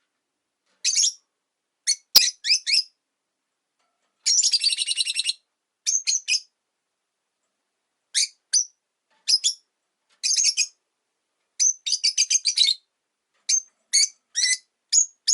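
Rosy-faced lovebirds chirping: short, sharp, high-pitched chirps in quick clusters, with a rapid chattering run about four seconds in. A single sharp click comes about two seconds in.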